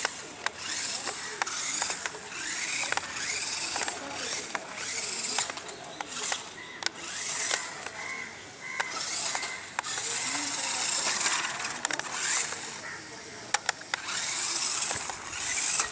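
Small electric motor and gears of a 1/12-scale RC rock crawler whining in repeated bursts of one to two seconds as it is driven, with scattered clicks and knocks.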